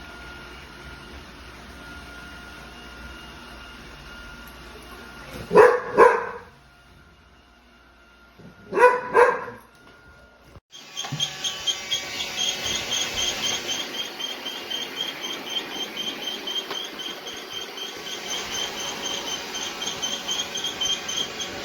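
A dog barking: two quick pairs of barks, over a steady machine hum with a thin whine. From about halfway on, a louder rapid pulsing with a high whine takes over.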